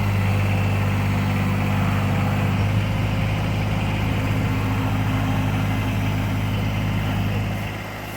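Kubota BX23S sub-compact tractor's three-cylinder diesel engine running steadily with a low hum while its backhoe is worked; the sound eases off a little near the end.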